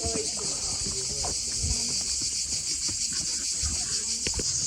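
A steady, high-pitched chorus of cicadas droning, with a few short low knocks and thumps.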